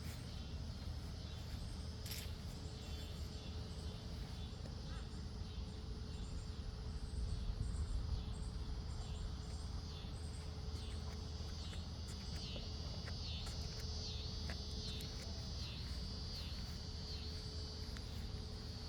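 Insects chirring: a steady high-pitched trill, with a repeating pulsed call laid over it through the second half.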